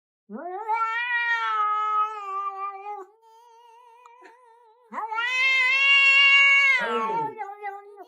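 Domestic cat giving two long, drawn-out meows, the second louder, with a fainter wavering tone between them.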